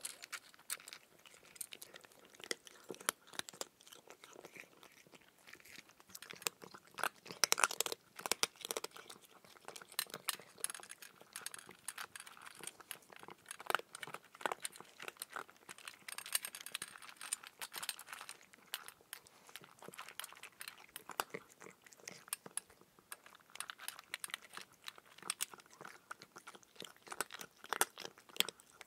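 A person chewing raw cucumber: irregular crisp crunches, with the loudest cluster about eight seconds in.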